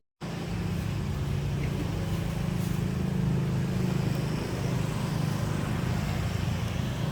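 A vehicle engine running steadily with road noise: an even, low hum that does not change.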